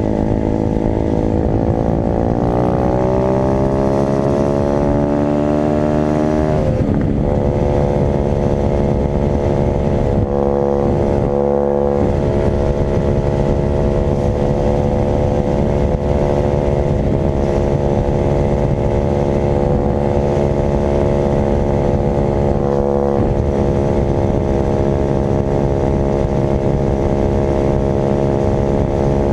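Dirt bike engine pulling hard, its pitch climbing for about six seconds before dropping sharply on a shift. It then holds a steady high rev, with a couple of brief dips in throttle.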